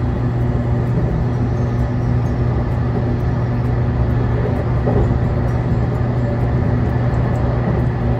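JR Kyushu 813 series electric train heard from inside the carriage while running at speed: a steady rumble of running noise with a constant low hum.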